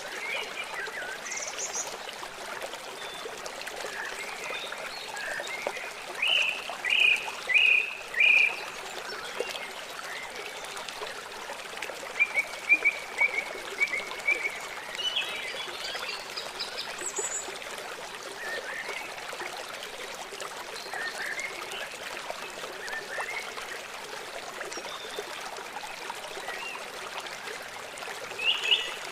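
Small songbirds chirping and trilling in short scattered phrases, the loudest a run of four chirps about six to eight seconds in, over a steady hiss of running, trickling water.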